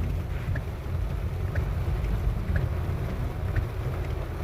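Inside a car's cabin in heavy rain: a steady low rumble of the car and road under a haze of rain noise, with a faint tick about once a second.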